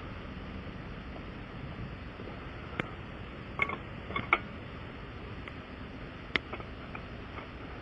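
Several short, sharp clicks and knocks, about five spread over a few seconds, over a steady background hum.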